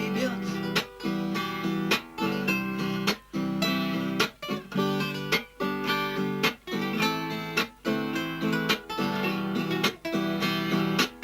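Acoustic guitar strummed in a steady rhythm, the chords breaking off briefly about once a second.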